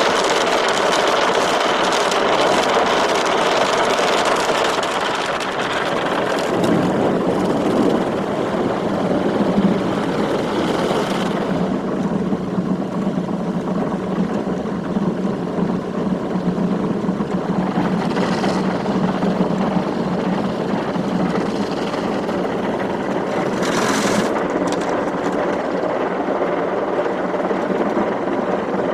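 Automatic car wash machinery running: a hiss of water spray over the machine noise, which about six seconds in gives way to a steady low motor hum, with short spray hisses later on.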